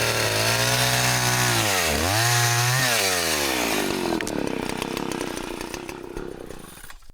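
Chainsaw engine running loud at high revs, its pitch dipping briefly and recovering about two seconds in. After about four seconds the engine note gives way to a noisy, fading sound that cuts off abruptly near the end.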